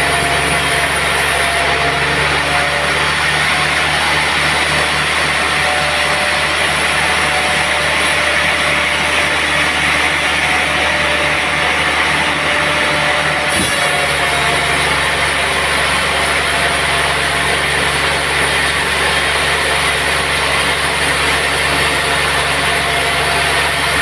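Sawmill machinery running steadily: an engine-like hum under a constant loud whir, with a slight change in tone about halfway through.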